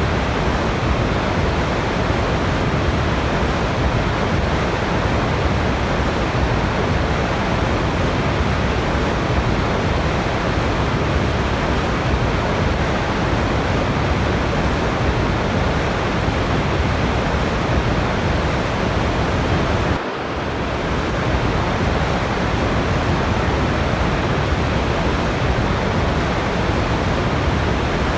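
Waterfall: a steady, dense rush of falling water, with a brief dip in level about twenty seconds in.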